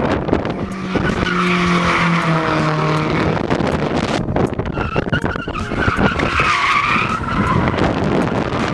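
A car drifting: the engine runs high with a steady tone early on, then the tyres squeal with a wavering pitch as it slides sideways on wet pavement.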